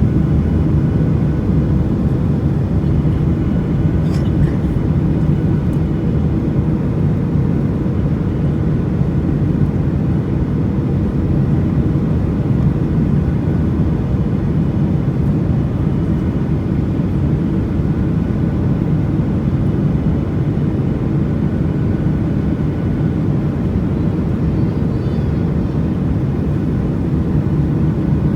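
Boeing 737 cabin noise in flight, heard from inside the cabin: a steady low rush of engines and airflow, with a faint steady tone over it and a brief click about four seconds in.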